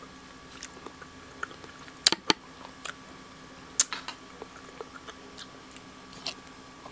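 A person chewing a mouthful of creamy mushroom soup, with soft mouth sounds and scattered sharp clicks, the loudest a quick pair about two seconds in and another near four seconds.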